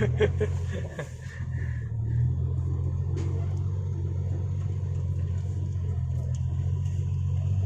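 Diesel engine of an Isuzu Deca dump truck running steadily, a low drone heard from inside the cab while driving. The drone eases off about a second in and picks back up near two seconds.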